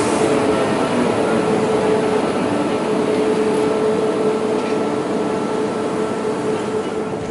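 RegionAlps regional train rolling slowly along the platform: a steady hum over a rumble of wheels and running gear, slowly getting quieter.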